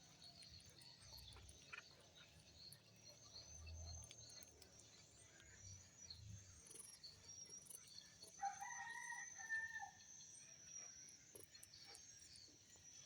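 A rooster crowing once, about eight seconds in, for a second and a half.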